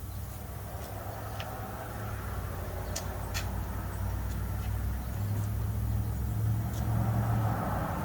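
A motor vehicle engine running with a steady low rumble that grows slightly louder, with a few faint clicks about three seconds in.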